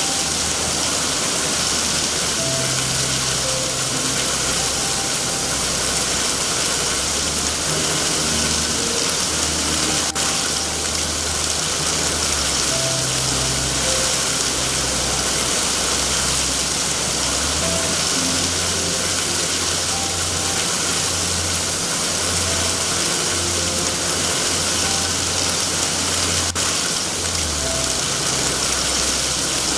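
Steady heavy rain hissing, with a soft, slow music bed underneath: low held drone notes that change every few seconds and sparse quiet higher notes.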